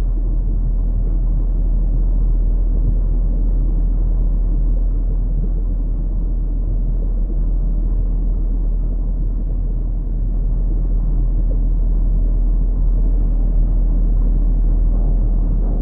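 A steady, dense low rumble of noise with no distinct events.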